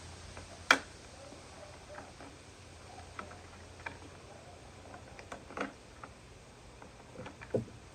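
Scattered clicks and light knocks of plastic parts and tools being handled while a Stihl BR600 backpack blower is taken apart, with one sharp click a little under a second in as the loudest.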